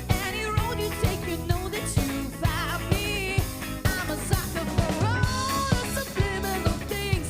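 A live funk and soul band playing, with a drum kit keeping a steady beat under a bending, wavering melodic lead line.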